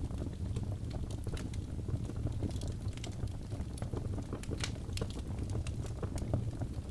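Crackling fire: irregular snaps and pops over a steady low rumble of burning.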